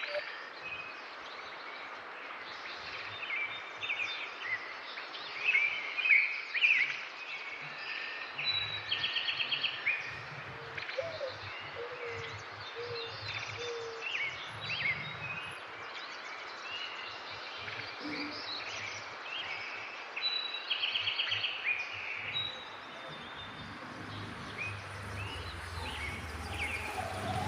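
Small birds chirping and singing, many short whistled notes, over a steady background hiss. A rapid rattling trill comes twice, around a third of the way in and again past the middle.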